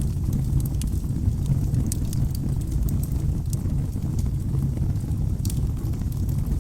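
Logs burning in a fireplace: a steady low rumble of flames with scattered sharp crackles and pops at irregular moments.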